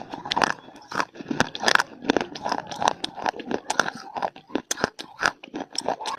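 Close-miked biting and chewing of dry clay (mitti): sharp, irregular crunches, several a second, as the hard pieces break between the teeth.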